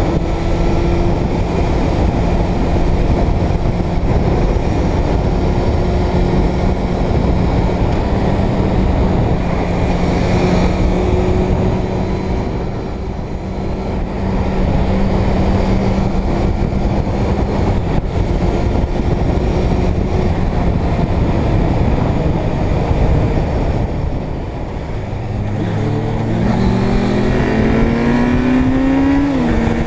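Motorcycle engine running at steady road speed, easing off twice, then rising in pitch as it accelerates, with a gear change near the end.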